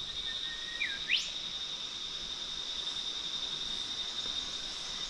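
Steady high-pitched drone of insects, with a brief rising whistle-like sweep about a second in.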